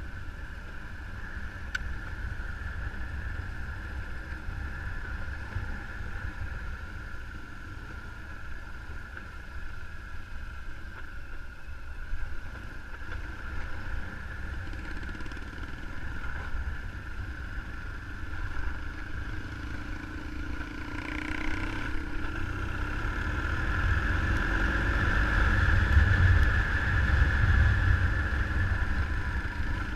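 Motorcycle running on the move, with a heavy low wind rumble on the microphone. It gets louder over the last third.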